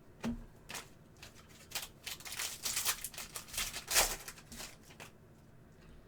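Trading cards and their packaging being handled: a run of short rustling and sliding scrapes, thickest in the middle and loudest about four seconds in, then quiet.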